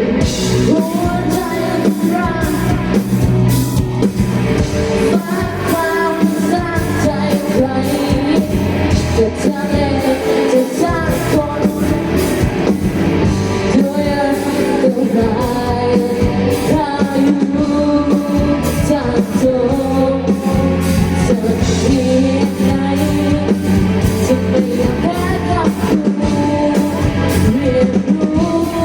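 Live band music with a lead singer over a steady drum beat.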